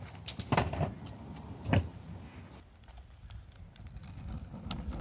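Skateboard rolling on pavement, a low rumble with two loud knocks, about half a second and just under two seconds in, and a few lighter clicks later.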